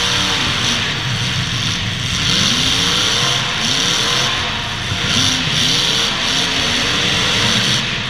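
Demolition derby cars' engines revving over a loud, noisy din, their pitch rising and falling several times.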